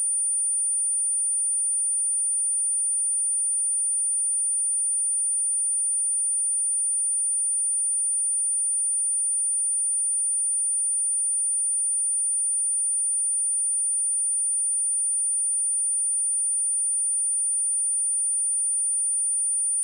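Pure 9285 Hz sine-wave test tone: a single steady, very high-pitched whistle held at constant level without a break.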